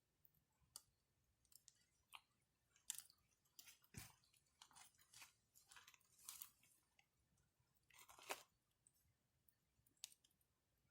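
Faint campfire crackling: burning wood giving irregular sharp pops and short crackles, busiest in the middle, with a louder crackle just past eight seconds in.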